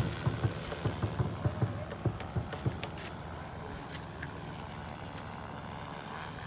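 Agricultural spray drone running with a steady hum, with irregular low thumps over the first two and a half seconds.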